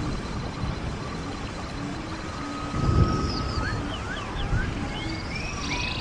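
A stream of running water rushes steadily, with a low rumble that swells briefly about halfway through. Songbirds chirp in short rising and falling whistles in the second half.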